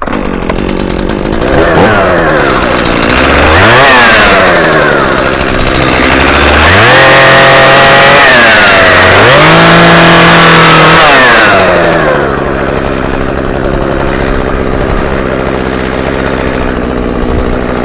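Chainsaw idling, revved briefly about three seconds in, then held at high revs twice in long stretches with a dip between, while it cuts through a tree branch under tension. It drops back to a steady idle after about twelve seconds.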